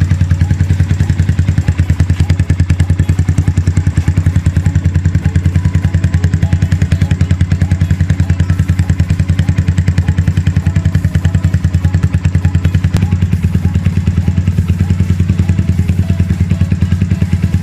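Yamaha FZ150i's single-cylinder engine idling steadily through a newly fitted Akrapovic full-system exhaust, a loud, even low-pitched thump of exhaust pulses.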